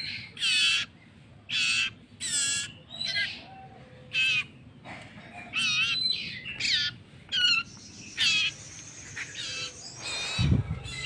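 Baby bird giving short, wavering begging calls again and again while being hand-fed, about a dozen separate calls with brief gaps between them. A dull bump sounds near the end.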